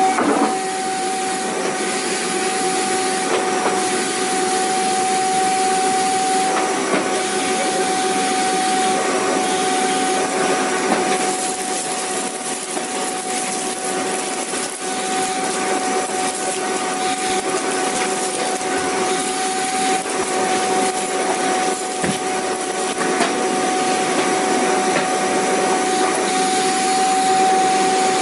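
Vacuum cleaner running continuously: a steady rushing of air with a constant motor whine, the level wavering slightly.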